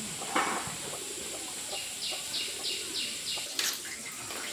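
A bird calling a quick series of four short, falling chirps about two seconds in, over a steady high hiss. There is a brief scuffing sound near the start.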